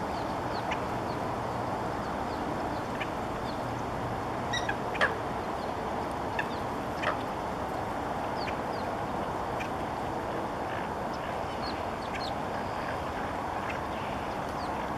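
Wetland waterbirds giving many short, scattered calls, the loudest about five seconds in, over a steady rush of wind.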